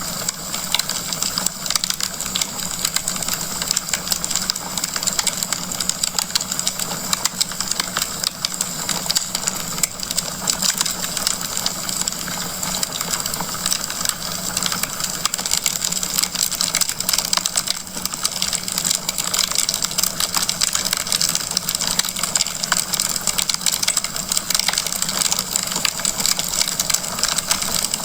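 Wood fire crackling in a fireplace: a dense, steady run of small pops and snaps over a soft hiss.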